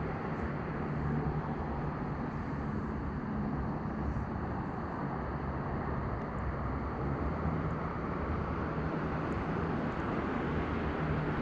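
An engine idling steadily: a constant low hum with no change in speed.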